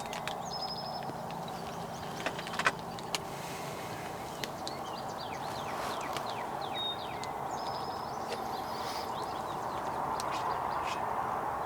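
Small birds chirping and trilling over a steady low rush, with a few sharp clicks about two and a half seconds in.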